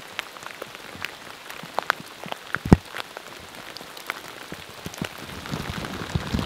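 Steady rain falling, with many sharp drop hits close by; one louder hit comes almost three seconds in.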